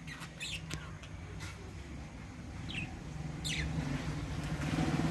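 Small aviary parrots giving short, sharp chirps, about seven scattered calls, over a low steady hum that grows louder in the second half.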